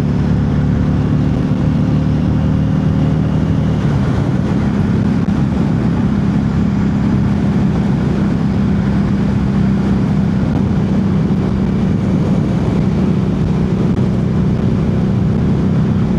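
Harley-Davidson Street 500's 494 cc V-twin running at riding speed, with a steady rush of wind and road noise. The engine note shifts about four seconds in, then holds steady.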